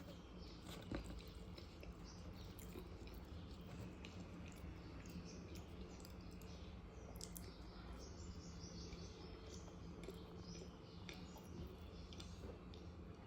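Faint chewing and mouth sounds of someone eating: short, scattered crackly clicks over a low steady hum, with one slightly louder click about a second in.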